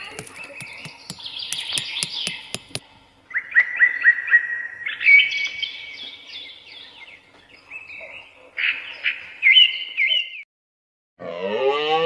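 Birds chirping in repeated quick phrases, over a run of sharp taps in the first few seconds. A cow moos about a second before the end.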